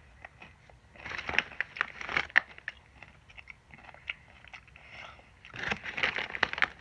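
Crunching and chewing of a mouthful of jalapeño pepper and Takis rolled tortilla chips, in two bouts of crackly crunches, about a second in and again near the end.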